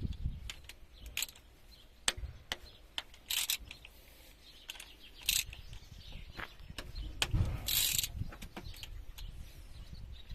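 Hand tools working on a KAMAZ diesel engine during cylinder-head removal: scattered metal clicks and knocks, with a few short rasps about three seconds in and again near eight seconds.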